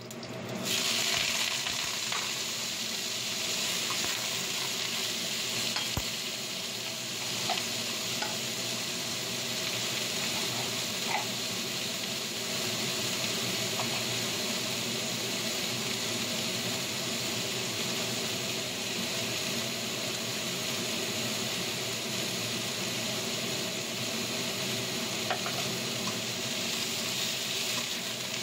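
Broccoli and garlic sizzling in hot oil in a wok as they are stir-fried. The sizzle jumps up about a second in as the blanched broccoli goes into the pan, then holds steady, with a few light taps of the spatula against the wok.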